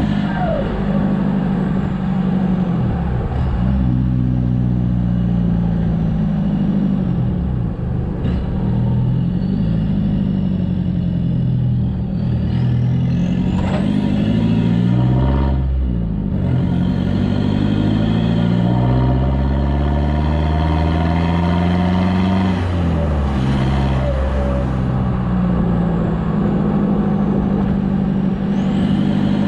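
Toyota Hilux turbo-diesel engine running through an exhaust with the muffler cut out, pulling under load. Its note rises and then drops again several times, as when accelerating through the gears.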